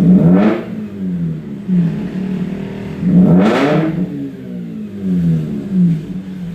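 Mazda RX-8's twin-rotor Renesis rotary engine blipped twice through an aftermarket valvetronic exhaust, each rev rising and falling within about a second, with a lumpy, rhythmic idle in between.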